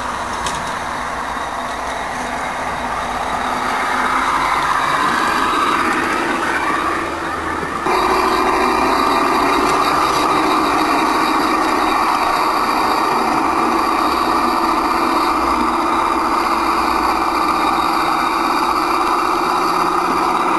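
Simulated diesel engine sound from the sound system of a battery-electric 5-inch gauge model Sentinel diesel shunter locomotive, running steadily under load. It gets abruptly louder about eight seconds in.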